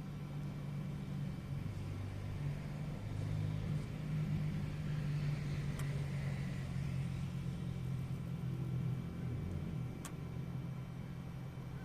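A motor running with a steady low hum. A rushing noise swells and fades in the middle, and there are two sharp clicks.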